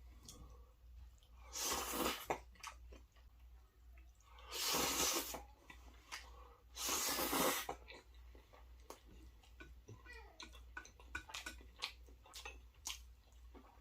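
Close-miked eating: wet chewing and small mouth clicks, with three louder rushing noises, each under a second, in the first half.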